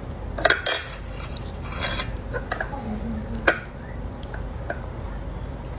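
Rubbing and scraping from a conch being cleaned by hand, its innards pulled away from the meat, with a few sharp clicks scattered through it.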